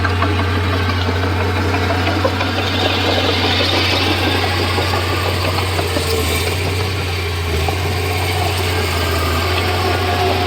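Komatsu D31P bulldozer's diesel engine running steadily, a continuous low drone with mechanical clatter.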